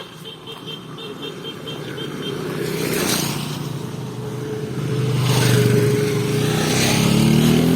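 A motor vehicle passing close on the road, its engine getting louder over several seconds, with the engine pitch rising near the end as it speeds up.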